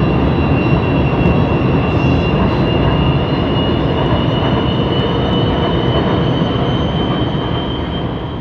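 Light rail train running on its track: a steady heavy rumble with a thin high whine held above it.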